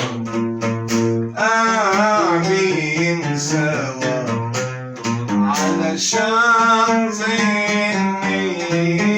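Arabic song performed by a male singer with plucked string accompaniment. Plucked notes play alone at first, then about a second and a half in the voice enters on a long wavering sung line with vibrato.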